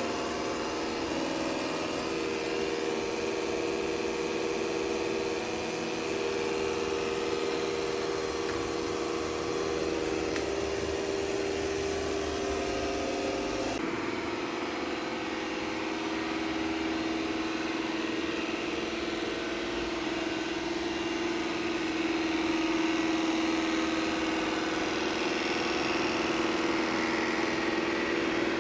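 Ecovacs T50 Pro robot vacuum running while mopping, giving off a steady, tractor-like droning hum; its pitch shifts slightly about halfway through. The owner takes the noise for a fault in the new machine, whose mop pads won't retract, though customer service calls the sound normal.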